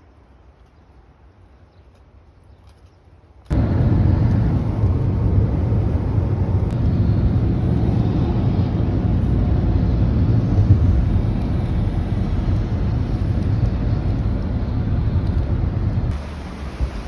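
Low, steady rumble of wind buffeting the microphone outdoors, which cuts in suddenly after a few seconds of faint hiss and eases near the end.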